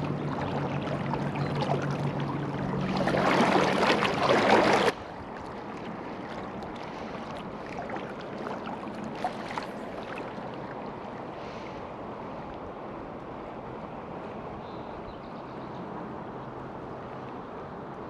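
River water flowing steadily. For the first five seconds it is louder, with a low steady hum and a rush that swells and then cuts off suddenly, leaving a quieter even flow.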